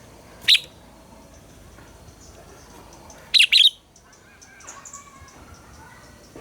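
Red-whiskered bulbul singing: a short sharp call about half a second in, then a quick loud double phrase a little past three seconds, with fainter chirps in between.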